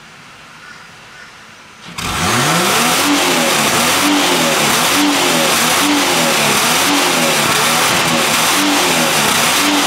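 The 3.8-litre Ecotec V6 of a Holden VY Commodore, heard from the back through its catalytic converter and muffler, is revved hard about two seconds in and held on a fake Bee R spark-cut rev limiter. The revs surge and sag about once a second rather than stuttering fast: a slow, poor limiter, because the copy unit's gain switch is marked backwards and was really on its lowest setting.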